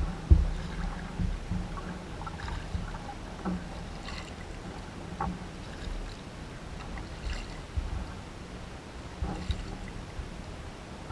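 Kayak on the water with irregular paddle splashes and knocks against the hull, one sharp thump just after the start.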